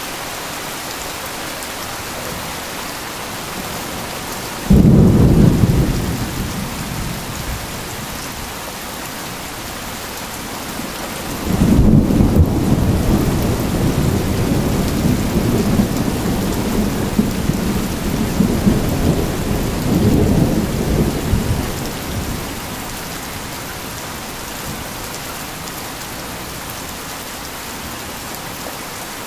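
Steady heavy rain, with two claps of thunder: a sudden sharp crack about five seconds in that rumbles away, then a longer rolling rumble from about twelve seconds in that swells again near twenty seconds before dying out.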